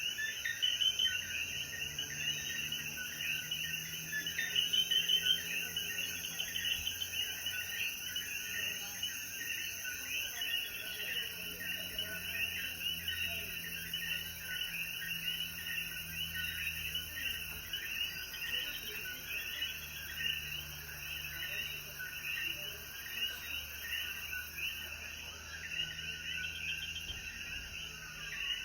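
Dense night chorus of many Puerto Rican coquí frogs calling at once, their short chirping calls overlapping continuously. A thin, steady high whine under the chorus stops about ten seconds in.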